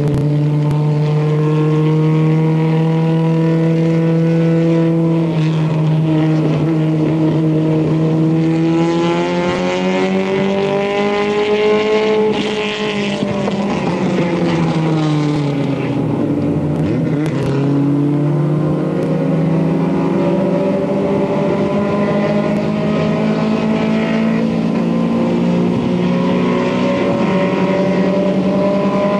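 Isuzu Stylus race car's four-cylinder engine running hard at racing revs. Its pitch holds and climbs, falls steeply to a low point about halfway through, then climbs again as the car pulls away.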